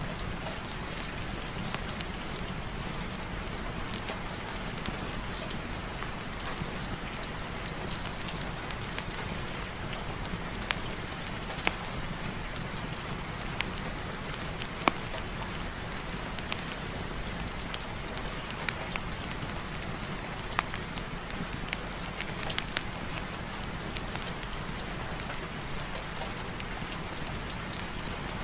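Steady rain falling, an even hiss with scattered sharp clicks of individual drops.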